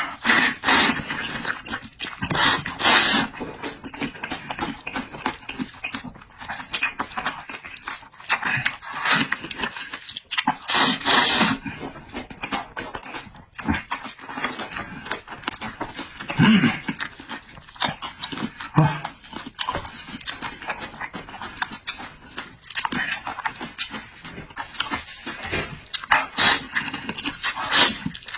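A person eating: chewing and slurping mouth sounds in irregular bursts.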